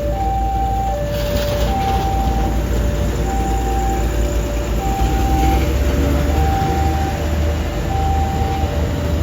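Level crossing warning alarm sounding an alternating two-tone high-low signal, one pair about every one and a half seconds, over the low rumble of a train that grows heavier about five seconds in.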